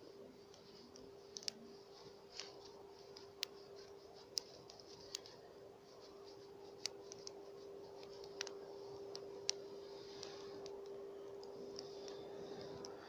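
Campfire of burning wood crackling, with irregular sharp pops every second or so over a faint hiss, under a steady low hum.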